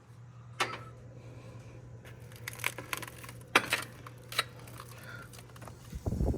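A handful of sharp clicks and clinks from small hard objects being knocked or handled, over a steady low hum, with a dull thump near the end.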